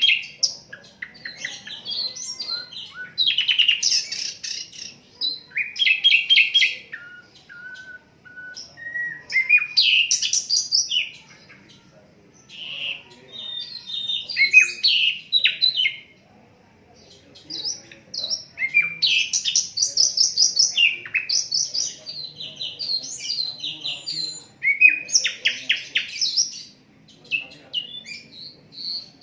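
Sikatan londo flycatcher singing: fast, varied phrases of rapid chirps and trills in bursts of a few seconds, with short pauses between them.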